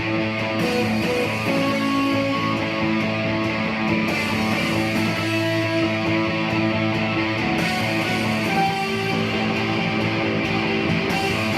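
Electric guitar playing a lead solo in a rock song, with notes held and changing throughout.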